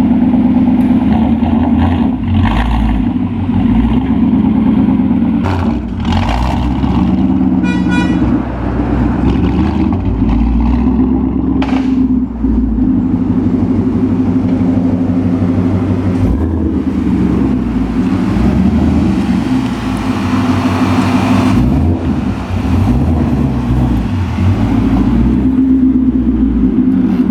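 2018 Ford Mustang GT's 5.0 V8 running through a freshly fitted MBRP Race cat-back exhaust, a deep steady exhaust note whose low end rises and falls several times. A brief high beep sounds about eight seconds in.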